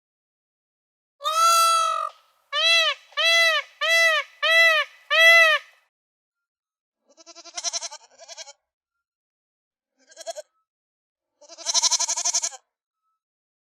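Honking calls: one longer honk, then five short honks in quick succession. These are followed by three quieter, quavering bleats near the end.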